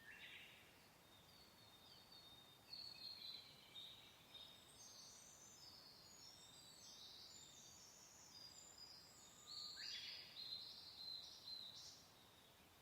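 Faint birdsong: several birds give quick high chirps and trills in bursts, the busiest flurry near the end, over a soft steady hiss of wind.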